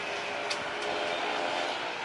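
Steady engine roar with a faint steady hum in it, and a brief click about half a second in.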